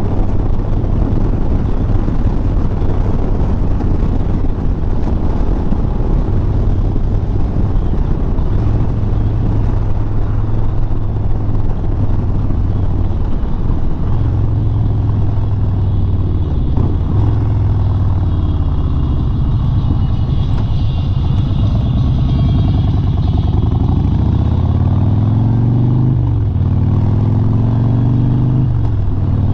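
Harley-Davidson Sport Glide's Milwaukee-Eight 107 V-twin running steadily at road speed under a constant rush of wind. Near the end the engine note rises and drops off sharply twice, as when accelerating and shifting up.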